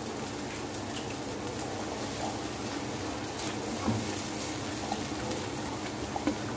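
Suji halwa sizzling in its ghee in a metal pan while a silicone spatula stirs it, a steady crackle with a few soft knocks of the spatula about four and six seconds in.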